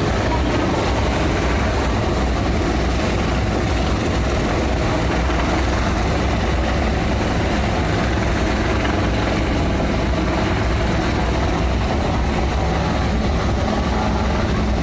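Helicopter hovering during a rescue drill at sea: a steady, loud rotor and turbine noise that does not change.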